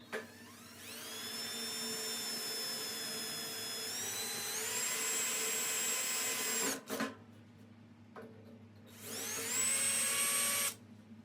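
Electric drill boring a weep hole in a metal dirt bike frame. The motor whine spins up and runs for about six seconds, stepping up in pitch midway, stops, then runs again for about two seconds near the end.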